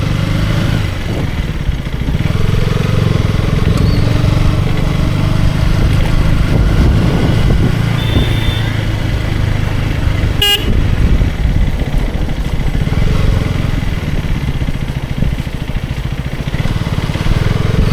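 KTM Duke 250 Gen3's single-cylinder engine running steadily under way, with wind noise over the rider's microphone. A short sharp sound cuts through once, about ten seconds in.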